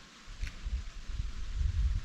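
Outdoor noise: irregular low rumbling over a steady high hiss, with a brief faint high sound about half a second in.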